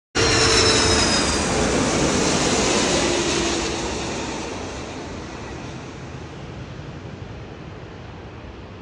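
Jet airliner's engine noise, loud at first and fading steadily as the aircraft moves away, with faint whining tones that glide slightly down in pitch.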